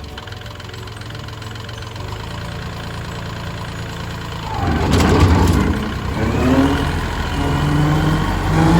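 Kubota tractor's diesel engine running at low speed, then growing louder about halfway through and rising in pitch as it is revved, with a brief clatter about five seconds in.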